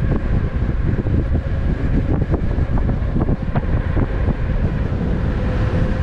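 Wind buffeting the microphone of a rider moving at speed on an electric unicycle: a loud, steady rumble with a faint steady whine and scattered light knocks.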